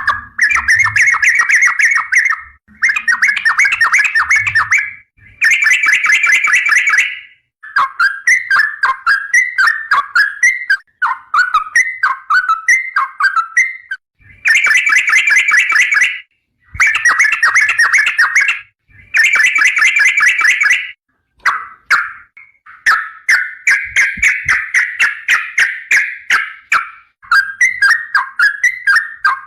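Trucukan (yellow-vented bulbul) singing vigorously, bird keepers' 'gacor' song. It gives bursts of rapid chattering trills about two seconds long with short pauses between, and in places looser runs of varied warbled phrases.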